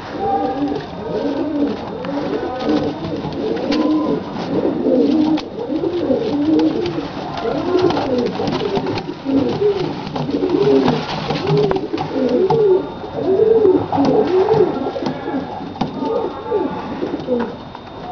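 Bokhara trumpeter pigeon trumpeting: a long unbroken rolling coo made of rapid, wavering notes that rise and fall over and over.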